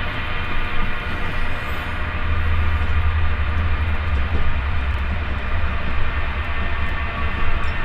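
A long-distance sleeper train running steadily, heard from inside the passenger carriage: a deep, even rumble with a hiss of running noise above it and no distinct clack of rail joints.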